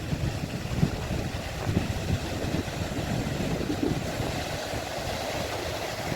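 Wind buffeting the microphone: a low, uneven rumble with no steady engine tone.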